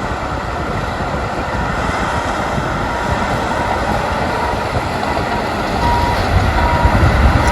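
Heavy truck engine running with a steady rumble that grows heavier near the end, and a reversing alarm beeping a couple of times about six seconds in.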